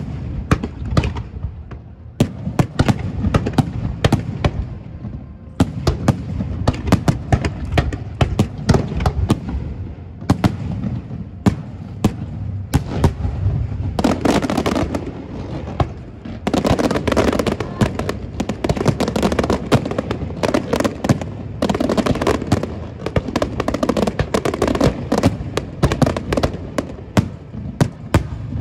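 Aerial fireworks display: shells bursting one after another in rapid bangs with crackling. The bangs grow denser and the crackle thicker through the second half.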